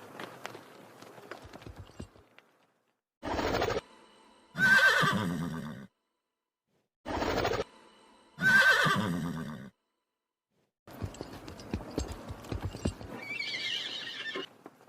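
Horse hoofbeats, then a horse neighing twice: each time a short noisy burst and then a whinny about a second and a half long, the same pair repeated about four seconds apart. More hoofbeats follow.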